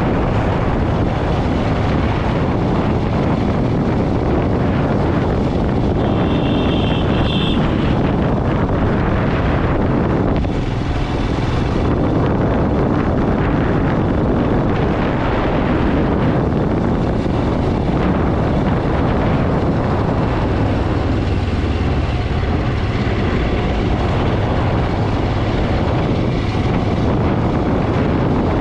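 Motorcycle on the move: steady wind buffeting the microphone over engine and road noise. A brief high tone sounds about six seconds in.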